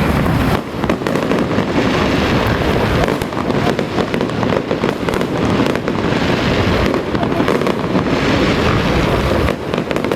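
Firecrackers going off in a long, dense, continuous crackle of rapid bangs, with brief lulls about half a second in and near the end.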